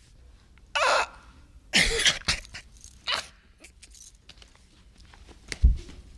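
A man making a few short, loud non-word vocal noises in quick succession in the first three seconds, then a sharp low thump near the end.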